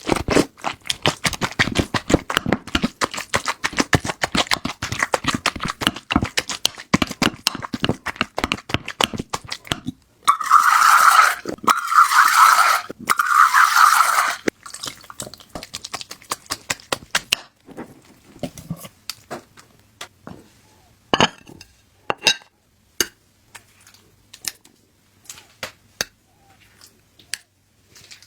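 Cat food being prepared by hand: utensils scraping and clicking against a dish in a dense run for about ten seconds. Then come two loud rushing bursts lasting about four seconds in all, followed by scattered light taps and clicks.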